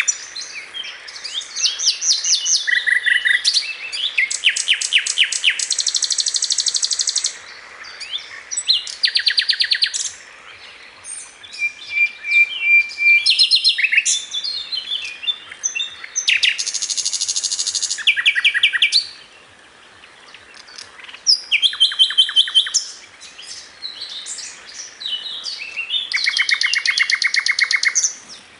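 A bird calling in a varied, changing string of sounds: high chirps and whistles mixed with rapid runs of repeated notes, each bout lasting a second or two with short pauses between.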